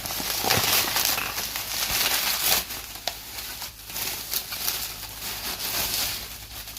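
Packaging crinkling and rustling as it is handled and pulled off new refrigerator parts, loudest in the first couple of seconds, with a few sharp clicks.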